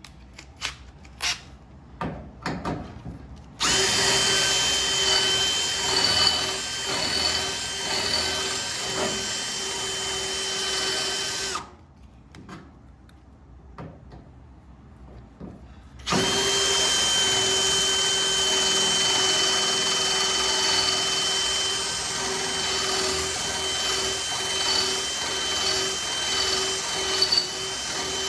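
An electric drill boring out a spot weld in the steel wing of a car body with a larger bit. After a few clicks, it runs with a steady whine for about eight seconds, stops for about four seconds, then runs again for the rest.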